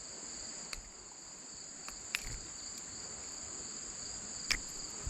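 Steady chorus of insects: two constant high-pitched trills, with a couple of faint clicks.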